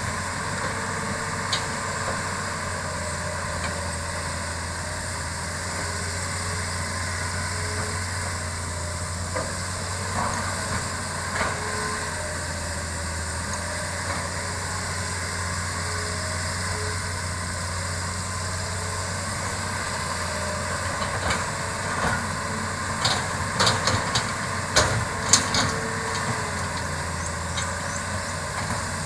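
Diesel engine of a Hitachi hydraulic excavator running steadily, with a run of sharp knocks and clatters about three-quarters of the way through, as it works earth on a road clearing.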